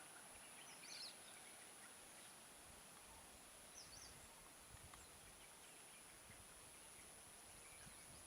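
Near silence: faint outdoor ambience with a steady high thin tone and two brief, faint bird chirps, about one second and four seconds in.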